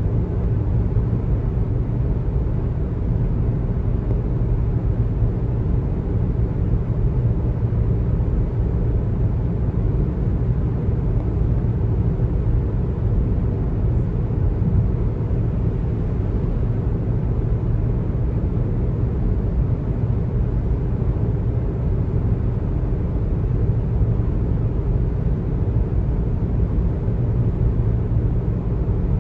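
Steady low rumble of road noise from a car driving at speed: tyres on the pavement and the engine running, with no changes or separate sounds.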